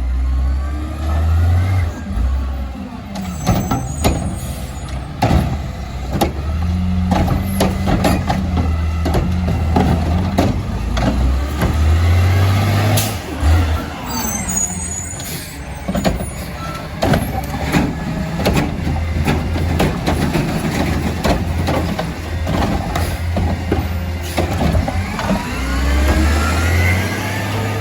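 Peterbilt 520 garbage truck with a Curotto Can body at work: the diesel engine runs steadily, with many metallic clanks and knocks and rising and falling whines over it.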